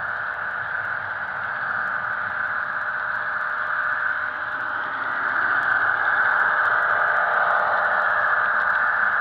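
Recorded diesel locomotive sound from a Soundtraxx Tsunami DCC sound decoder in an HO scale model of an EMD SD70ACe, played through the model's small speaker: a steady engine drone with little bass, getting a little louder about five seconds in.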